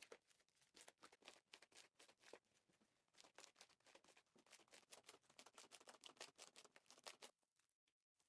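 Slime being squeezed and worked by hand, giving a faint, quick, irregular run of sticky crackles and pops that stops about seven seconds in.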